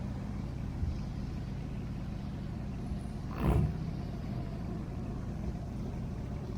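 Car engine running with a steady low rumble, with a brief louder whoosh about three and a half seconds in.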